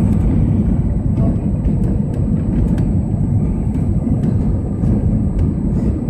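Airbus A321 passenger cabin noise: a loud, steady, low-pitched din of engines and airflow, with light clicks and rattles now and then.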